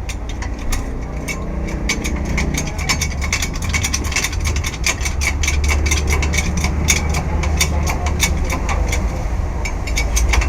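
Ratchet wrench clicking in quick irregular runs, over a steady low hum.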